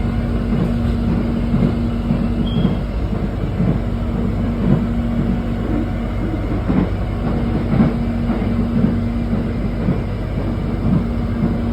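Airport rail link train running, heard from inside the carriage: a steady low rumble and hum with irregular knocks and rattles from the wheels and car body.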